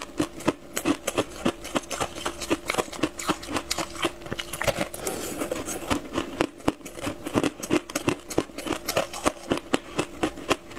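Close-up crunching and chewing of a crisp, airy tartary-buckwheat snack, with many short, sharp crunches a second.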